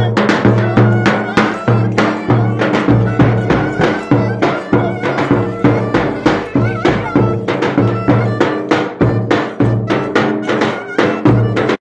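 Live traditional Turkish folk dance music, with a steady, driving drum beat under a sustained melody line.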